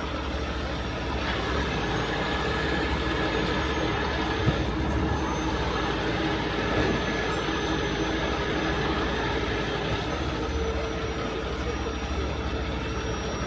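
Heavy rotator tow truck's diesel engine running steadily under load with its PTO-driven hydraulics working the boom, a thin high whine rising about two seconds in and dropping back about ten seconds in.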